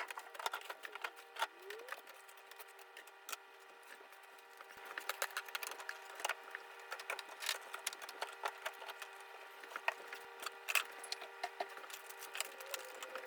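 Scattered light clicks and knocks of plastic and glass containers being handled and set down while a refrigerator is cleaned out, over a steady hum; the clatter gets busier about a third of the way through.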